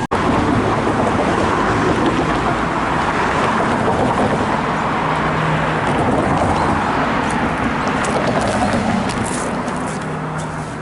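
Steady, loud rushing noise of a vehicle passing close by, with a few sharp clicks near the end.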